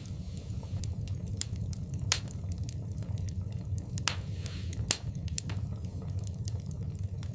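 Wood fire in a fireplace crackling, with scattered sharp pops over a steady low rumble. Two louder pops stand out, about two seconds in and about five seconds in, with a brief hiss just before the second.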